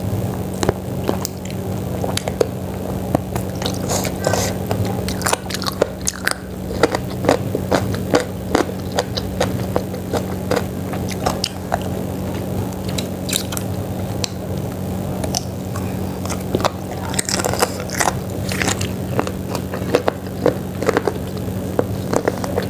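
Close-up eating sounds of chicken feet in soup being bitten and chewed: irregular wet smacks and sharp clicks throughout, with a steady low hum underneath.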